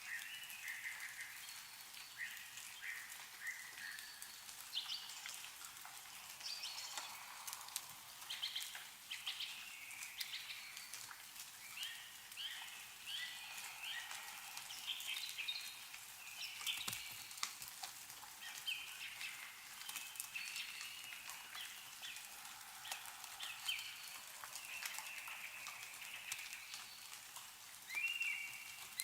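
Small birds chirping and calling again and again, with meltwater dripping and pattering from snow-laden trees.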